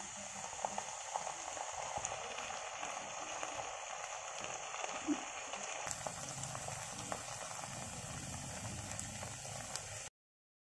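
Egg fried rice sizzling steadily in a pan, with a few faint ticks; the sound cuts off abruptly near the end.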